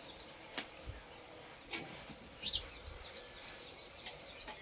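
Small birds chirping over a low outdoor background, with one louder chirp about halfway through and a few faint clicks.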